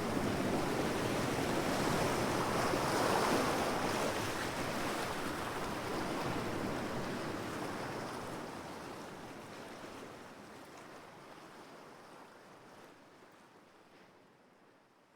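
Ocean waves washing on the shore, a steady rushing surf that swells in the first few seconds and then fades smoothly away over the second half until it is very faint.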